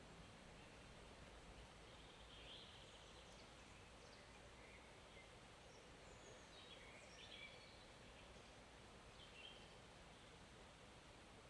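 Faint, steady hiss of a forest stream with birds calling now and then: short high chirps a few times, the loudest cluster about two-thirds of the way through.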